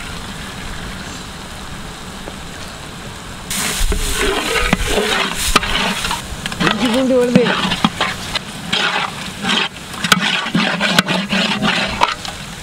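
Chopped onions and tomatoes frying in oil in a large pan, sizzling steadily. About three and a half seconds in, a ladle starts stirring and scraping the mixture across the pan bottom, louder and ragged, with repeated scrapes.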